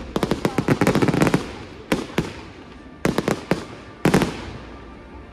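Fireworks display: aerial shells going off in rapid volleys of sharp bangs and crackles, a dense run in the first second and a half, then single reports and short clusters about two, three and four seconds in, dying away near the end.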